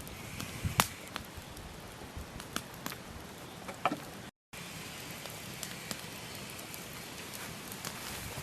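Wood campfire crackling, with irregular sharp pops from the burning logs over a steady hiss. The sound cuts out completely for a moment a little past the middle, then resumes.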